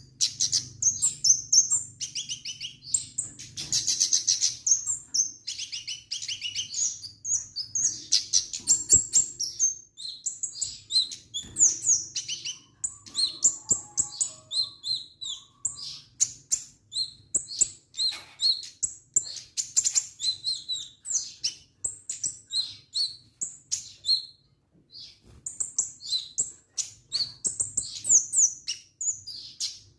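Kemade songbird singing vigorously in fast, continuous runs of high, sharp chirps and trills, with a brief pause about twenty-four seconds in.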